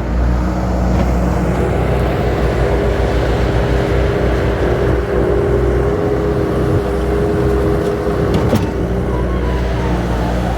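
Heavy earthmoving machine's diesel engine running steadily while it loads dirt, with a steady higher whine over the middle of the stretch and a single short knock about 8.5 seconds in.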